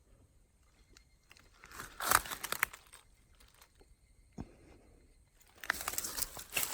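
Two bursts of crunching, crackling rustle of dry plant matter, the second about three seconds after the first, with a single sharp click between them.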